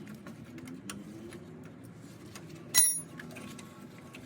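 Hand tools being handled against metal: small scattered ticks, then one loud ringing clink of a steel wrench about three seconds in.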